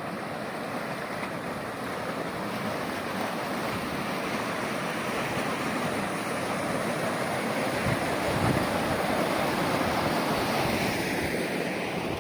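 Floodwater rushing steadily, growing slightly louder, with some wind buffeting the microphone.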